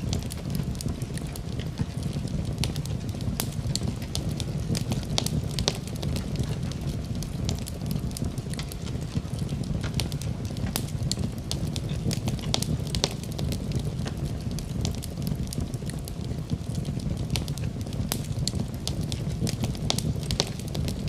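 Wood fire crackling in a fireplace: a steady low noise of the burning logs under frequent sharp crackles and pops.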